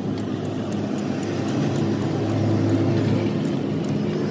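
A steady low mechanical drone, a motor or engine running, that swells slightly about two to three seconds in, with faint light ticks over it.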